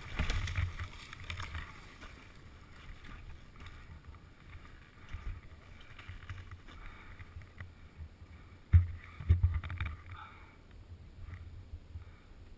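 Wind and rustling on the camera microphone with no engine running, and a few heavy thumps about nine seconds in.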